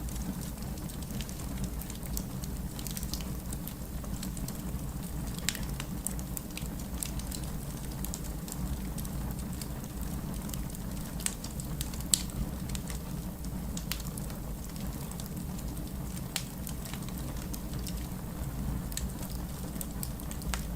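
Fireplace crackling with scattered sharp pops, over a steady low wash of rain. One pop about twelve seconds in is louder than the rest.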